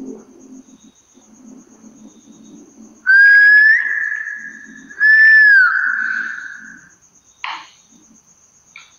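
Two loud whistle notes about two seconds apart, each under a second long. The first rises slightly in pitch; the second holds and then glides down at its end.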